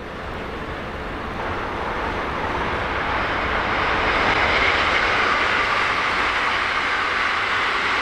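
JR EF65 electric locomotive hauling a container freight train, approaching: a steady rumble of wheels on rail that grows louder over the first few seconds, then holds.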